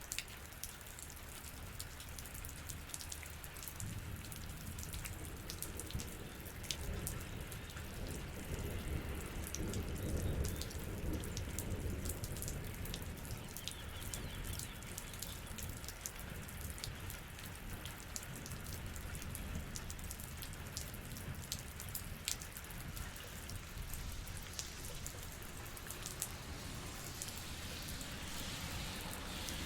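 Rain falling steadily, with many individual drops tapping sharply and irregularly. A low rumble swells about ten seconds in and then eases off.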